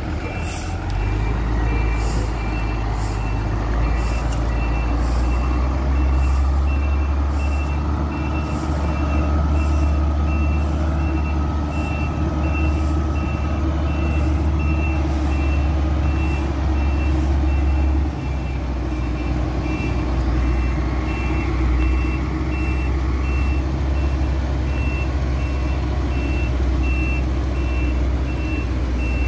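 Concrete mixer truck's engine running steadily while its reversing alarm beeps over and over at an even pace as the truck backs up.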